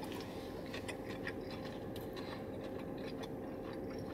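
A mouthful of crispy chicken wrap being chewed with the mouth closed: many small, scattered crunches and wet clicks over a faint steady hum.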